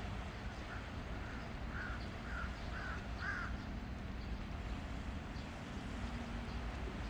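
A bird calling in a quick series of about six short, harsh calls, the last ones loudest, over a steady outdoor background hiss.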